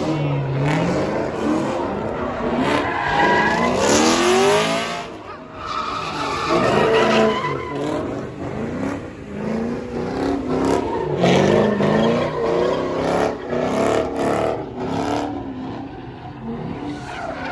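Car engine revving hard in repeated rising sweeps, with tire squeal and skidding.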